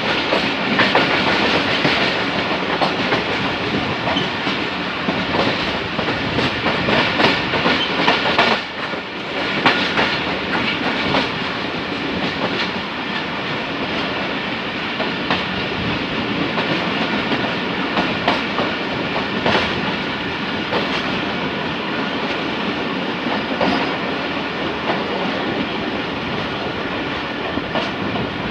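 Millat Express passenger train running slowly, its wheels clattering over the rail joints in a steady clickety-clack, with a brief lull about nine seconds in.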